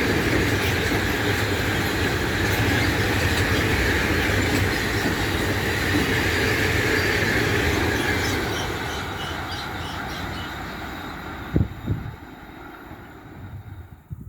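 A train rolling past on the track, with a high, hissing squeal in its running noise. The sound fades away from about eight seconds in, and two short thumps come near the end.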